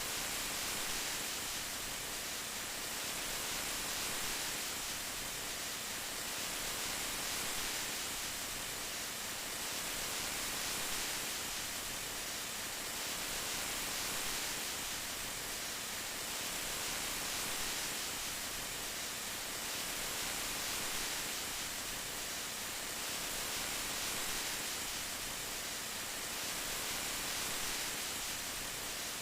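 Steady rain, an even hiss with a gentle swell about every three seconds.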